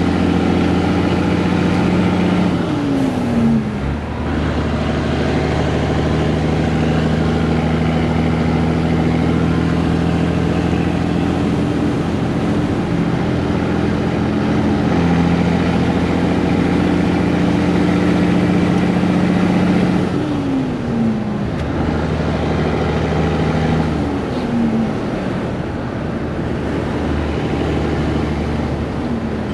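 Peterbilt 362 cabover truck's diesel engine running under way with a steady note. The pitch drops quickly a few seconds in and three more times in the last ten seconds.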